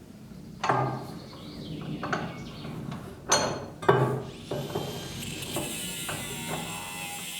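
Four sharp knocks and clanks with a short ring, from hand tools working on an old wooden door's hardware. A steady high hiss sets in about halfway through.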